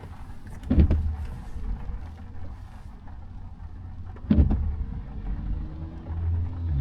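Car driving on a wet road, heard from inside the cabin: a steady low road rumble with two dull thumps about three and a half seconds apart.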